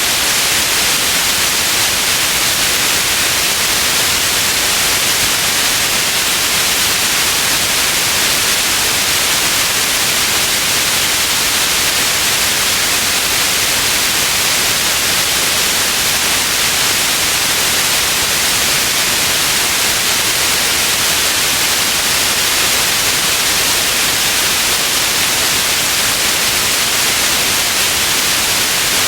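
Steady, loud white noise: an even hiss, brightest in the upper range, that does not change.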